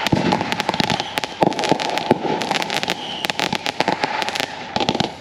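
Consumer fireworks going off at close range: a rapid, unbroken string of crackling pops and bangs, several a second.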